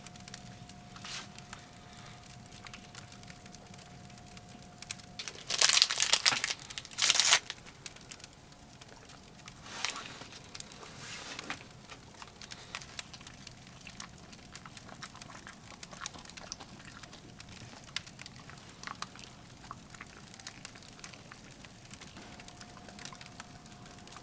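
Wood fire crackling in a small camp stove, with scattered sharp ticks and pops. About six seconds in come two loud crumpling rustles, with a weaker one around ten seconds. A faint steady tone stops about five seconds in and returns near the end.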